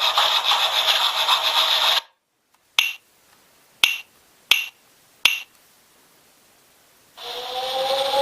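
Recorded sound effects from a TOMYTEC Geocolle sound unit. A woodworking-shop machine noise cuts off about two seconds in, then hyoshigi wooden clappers strike four sharp clacks. Near the end a siren starts, rising in pitch.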